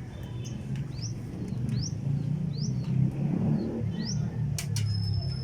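A low, wavering rumble that swells toward the middle, with a small bird's short rising chirp repeating about every three-quarters of a second. Two sharp clicks come near the end.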